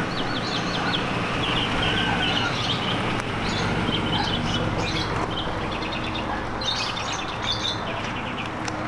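Small birds chirping and tweeting in quick repeated trills, over a steady low hum.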